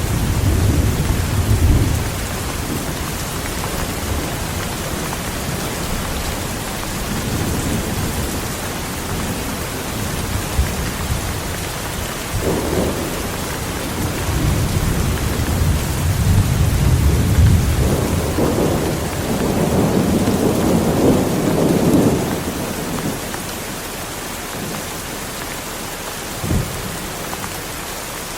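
Heavy rain falling steadily while thunder rolls again and again in deep rumbles, swelling loudest about two-thirds of the way through and then dying away. A short, sharp crack comes near the end.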